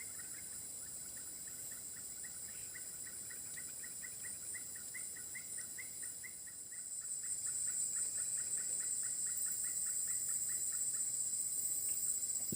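A long run of short, evenly repeated chirping calls from a night animal, about four a second, stopping near the end, over a steady high-pitched drone of night insects that swells about halfway through.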